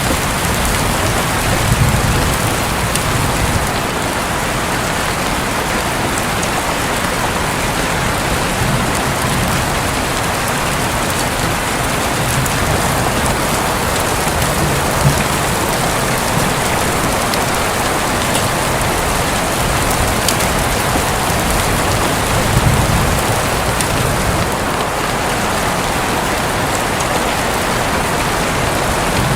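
Steady rain drumming on a roof, with low rumbles of distant thunder swelling up a few times.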